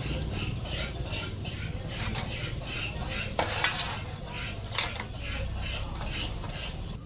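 Metal hand tools working on metal parts: rhythmic scraping and clinking, about three strokes a second, with a sharper metallic knock about halfway through.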